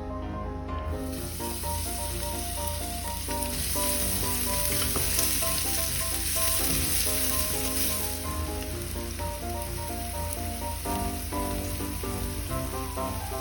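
Food frying in hot oil in a pan, a steady sizzle that starts about a second in and is loudest through the middle, over background music.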